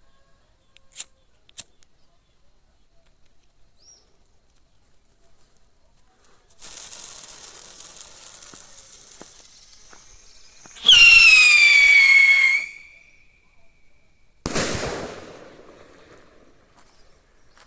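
Whistling firework: a hiss runs for about four seconds, then a loud whistle falls in pitch for nearly two seconds and stops suddenly. About two seconds later comes a single loud bang that dies away.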